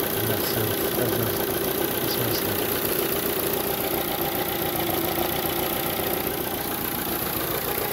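Ford Fiesta Zetec S four-cylinder petrol engine idling steadily, running on a newly fitted gearbox-end engine mount that so far seems to be all right.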